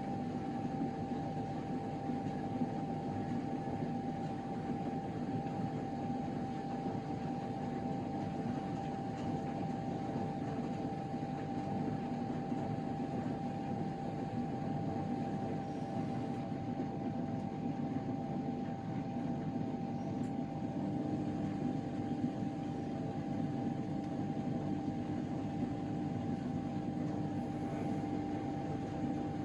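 Miele Novotronic W913 washing machine running its drain and spin after the second rinse: a steady mechanical hum with a constant whine over it, and a lower steady tone that comes in about twenty seconds in.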